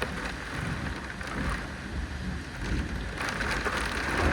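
Steady rain falling in a thunderstorm, over a low rumble, growing a little heavier near the end.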